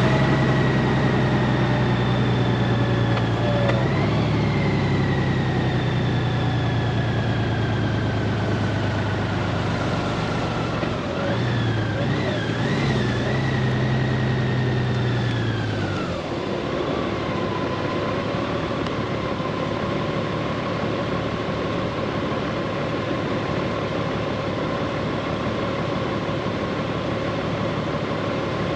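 Honda Gold Wing DCT's flat-six engine and drivetrain running on the move, with a whine that slowly falls in pitch as the bike eases off. About 11 seconds in the note wavers briefly, and from about halfway through it settles to a steadier, quieter hum.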